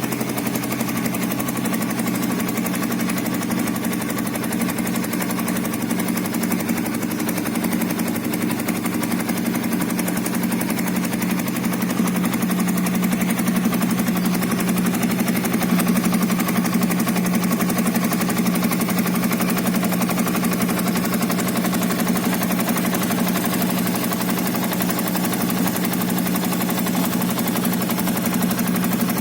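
Yamaha Vixion New's single-cylinder four-stroke engine idling steadily through an aftermarket Suzuki Satria FU muffler, getting slightly louder for a few seconds around the middle. The muffler is one the owner says sounds much like the original exhaust.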